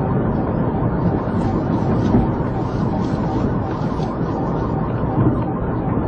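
Steady engine noise running loudly without a break.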